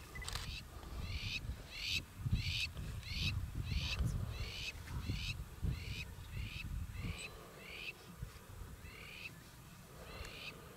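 A bird calling a long series of short, high-pitched notes, about one and a half a second, evenly spaced, with a short pause near the end.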